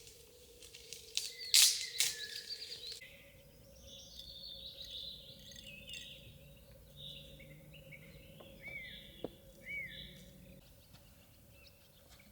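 Small birds chirping and calling in short, quick notes, with a brief clatter of a few sharp knocks about a second and a half in.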